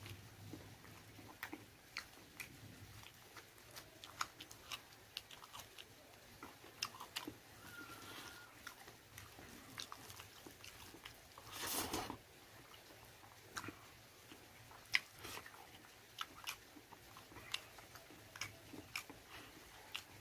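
A person chewing and biting pork close to the microphone, with many small wet mouth clicks and crunches. A louder short noisy burst comes about twelve seconds in.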